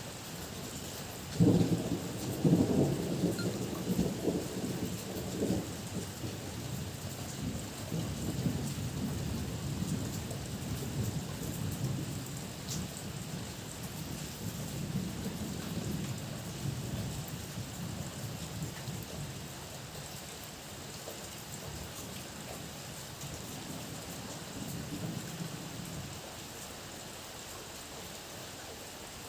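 A thunderclap over steady heavy rain: a sudden loud crack about a second and a half in, then a low rolling rumble that slowly fades away over some twenty seconds.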